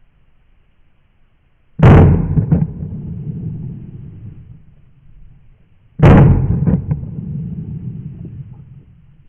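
Two shotgun shots about four seconds apart, each a sharp loud blast followed by a rolling echo that fades over a few seconds.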